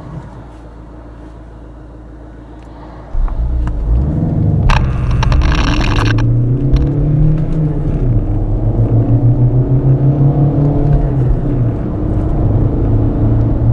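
Turbodiesel car engine running at idle, then launched hard about three seconds in and pulling through the gears under full acceleration, its pitch climbing and dropping back at the shifts. About a second after the launch there is a loud hiss lasting a second or so.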